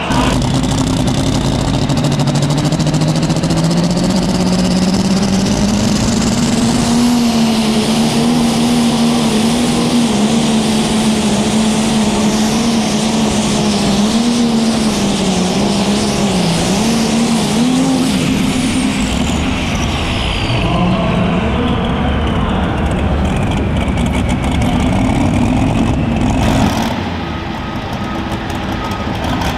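Light limited super stock pulling tractor's diesel engine at full power down the pulling track: its pitch climbs over the first several seconds, then holds high and wavers. About twenty seconds in the engine drops back, and a high whine falls away as it winds down; the loudness drops shortly before the end.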